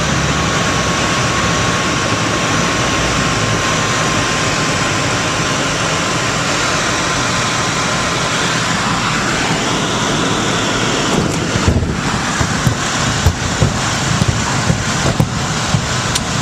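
Small airplane's engine and airflow heard from inside the cabin in flight: a loud, steady noise with a faint steady tone in the first half. About two-thirds of the way through, irregular knocks and bumps join in.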